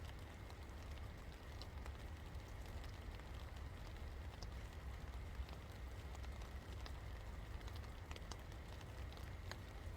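Steady rain falling and pattering on surfaces, with scattered individual drops ticking, over a low steady rumble.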